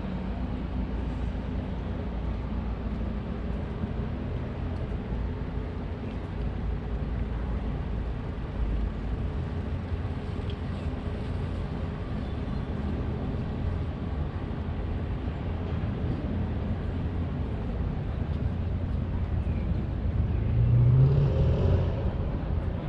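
Steady low rumble of city traffic, with a brief louder low sound rising and fading near the end.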